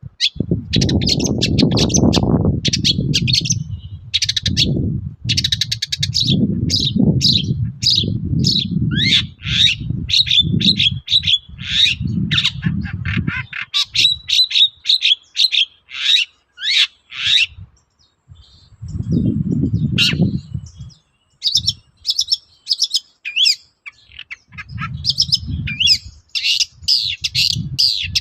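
Long-tailed shrike singing a fast, varied run of chirps, trills and harsh notes, the mimicking full song of a bird in top form. Under much of it there is a low rumbling noise.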